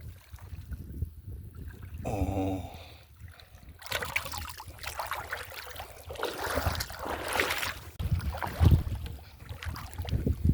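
Water splashing and sloshing in irregular bursts from about four seconds in, as of someone moving through shallow water.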